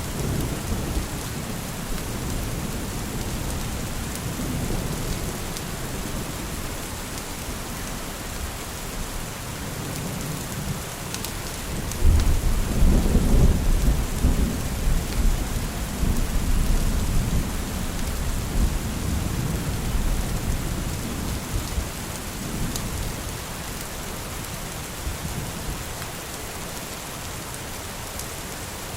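Steady rain hissing, with thunder rumbling low underneath. A loud low thunder rumble breaks in about twelve seconds in and rolls on for several seconds before fading back.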